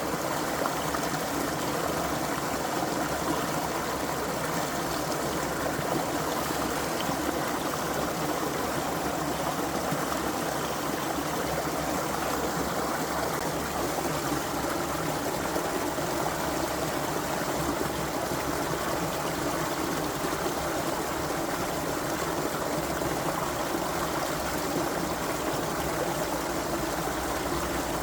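Creek water running and trickling over stones in a steady, even rush.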